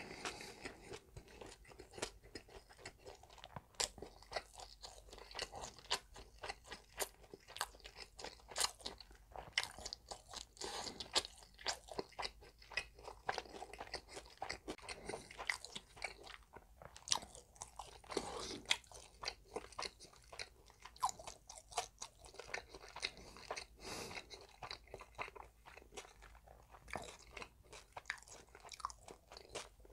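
Close-miked wet chewing of spicy cold noodles, a dense run of small sharp mouth clicks and smacks, with a few longer, noisier mouth sounds mixed in.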